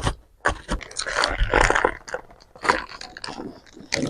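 Close-miked eating sounds: crunching bites and chewing of crispy fast food, in a quick run of crackles that is densest about a second in.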